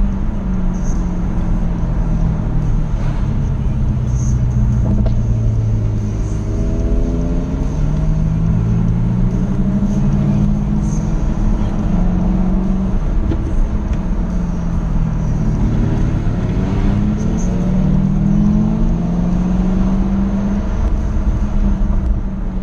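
Jaguar F-Type SVR's supercharged V8 driven hard on a winding road. The engine pitch keeps rising and falling with throttle and gear changes, with two strong climbing pulls, over a steady low road rumble.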